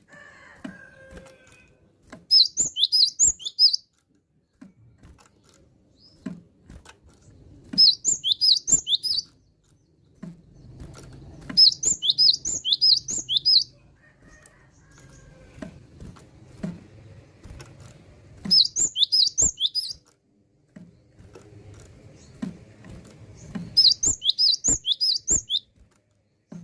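Cinereous tit (gelatik batu) singing in full voice: five bursts of quick, repeated high notes, each a second or two long, with sharp clicks between the phrases.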